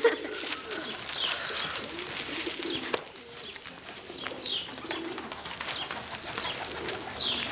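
Birds calling: low cooing like pigeons or doves, and short high chirps that fall in pitch, repeating every second or two, over soft footsteps.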